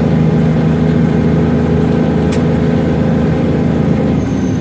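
Semi truck's diesel engine running at a steady pitch while driving, heard from inside the cab, with one short click about halfway through and a drop in the engine note near the end.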